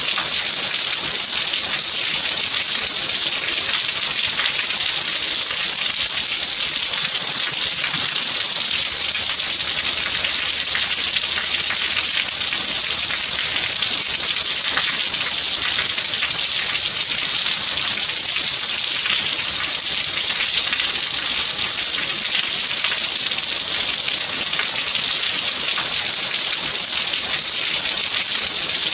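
Steady rainfall: an even, high hiss with fine scattered patter of drops, unchanging throughout.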